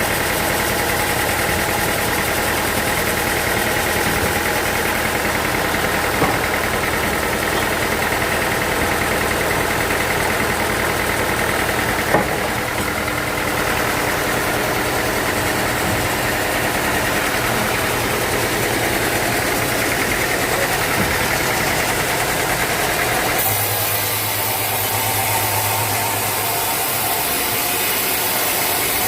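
Sawmill machinery running steadily with an engine-like hum. About 23 seconds in, the sound shifts abruptly and a new low hum sets in.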